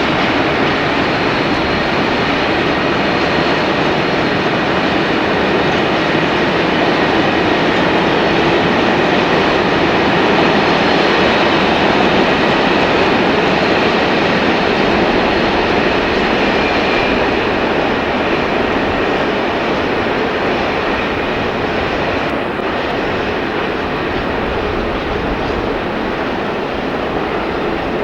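BR Class 60 diesel locomotive working a freight train, running steadily with a dense, unbroken noise that eases slightly in the last third.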